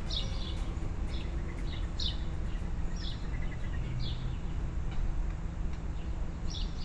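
Songbirds chirping: short, high chirps that drop in pitch, about one a second, over a steady low background rumble.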